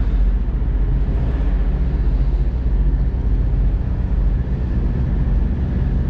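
Freightliner semi truck's diesel engine idling steadily.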